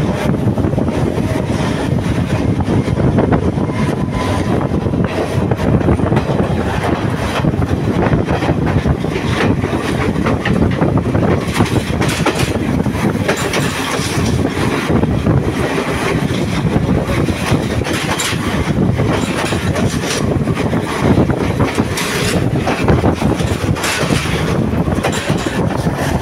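Passenger train running on the rails, heard from the open side of a moving carriage: a steady rumble and rattle of wheels with clicks and knocks over rail joints. The clatter gets busier from about halfway through, as a second train passes close alongside.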